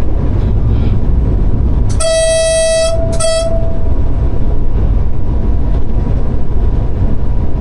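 Train horn sounding from the locomotive: one blast of about a second, starting about two seconds in, then a short second blast, over the steady low rumble of the running train in the cab.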